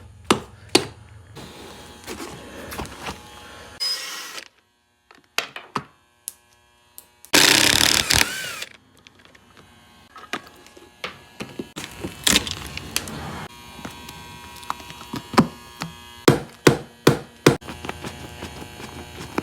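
Scattered knocks, taps and clicks of hand tools working on a wooden-framed boat captain's chair as it is taken apart, with a short, loud burst of rushing noise about seven seconds in.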